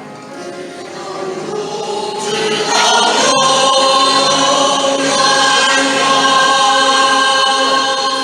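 A church congregation or choir singing a hymn together, swelling louder about three seconds in and then holding long notes.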